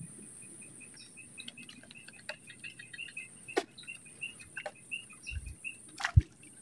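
A bird calling in a quick run of short, repeated chirps over a steady high insect drone from the swamp forest. A few sharp clicks are heard, and a brief low thump comes about six seconds in.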